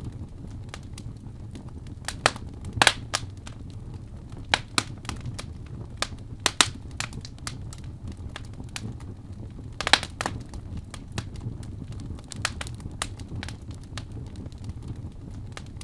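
Fire in a fireplace crackling: irregular sharp pops and snaps over a steady low rumble of the flames, with louder pops about three seconds in, about six and a half seconds in, and about ten seconds in.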